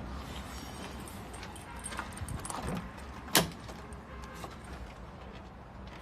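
Clatter and knocks at a dump truck's cab door as it is opened and climbed into, with one sharp, loud metallic click about three and a half seconds in.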